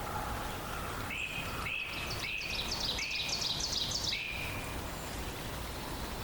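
A songbird singing a rapid series of about six repeated phrases, each a lower whistled note followed by higher chirps, over a steady background hiss of forest ambience.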